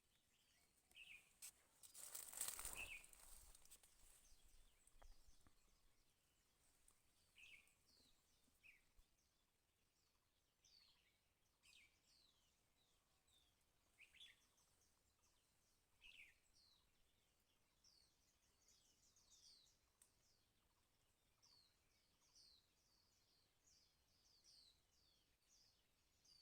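Faint bird calls: many short, high chirps that slide downward, scattered at first and coming more often in the second half. A brief rush of noise comes about two seconds in.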